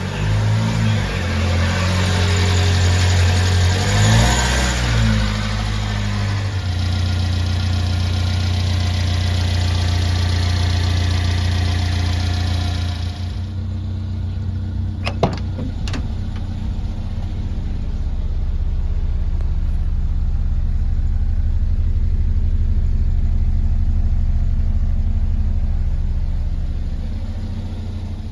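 Supercharged engine of a 1990 Subaru Sambar kei truck running. It is revved up and down a few times in the first seconds, then runs on steadily. About halfway through, two sharp clicks sound a second apart over the engine.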